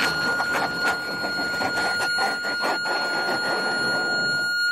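Cockpit landing-gear warning horn sounding as a steady high tone because the gear is still up, over a loud rough noise full of knocks and rattles that drops away near the end.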